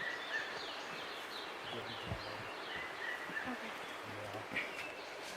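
Steady rushing of a waterfall, with birds chirping in short, high calls throughout.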